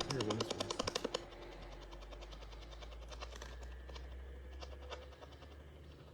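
Ghost box sweeping through radio stations: a rapid chatter of static bursts, about ten a second, that stops about a second in. After that only faint static with a few scattered clicks and a low steady hum remains.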